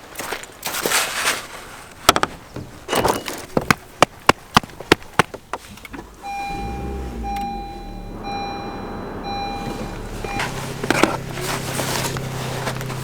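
A run of sharp clicks and knocks, then a car engine cranks and starts about six seconds in while a warning chime beeps repeatedly. The engine then settles into a steady idle.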